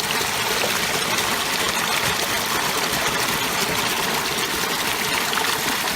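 Creek water rushing steadily through a low-water crossing just after a debris dam of sticks was pulled out.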